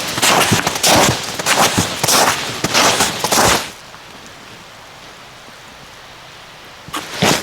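Footsteps crunching through snow, about two steps a second. They stop for about three seconds in the middle, leaving a faint steady hiss, then start again near the end.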